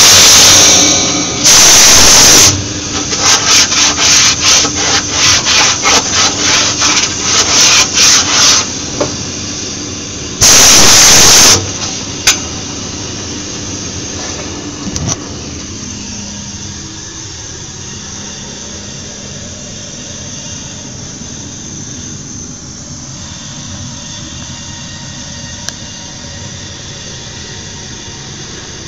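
Gas-shielded flux-cored arc welding: the arc runs with a loud, dense crackle and stops about a second in, strikes again for a second, then fires in a quick string of short bursts about two a second, like stitch or tack welds, and once more for about a second near the middle. After that the arc stays off, leaving a steady, much quieter background hum.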